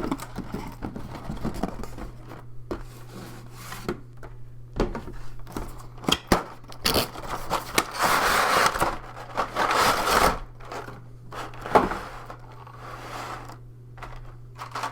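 A cardboard box of game pieces being opened and handled: scattered taps and scrapes of cardboard, then a longer stretch of rustling and sliding about halfway through, over a steady low hum.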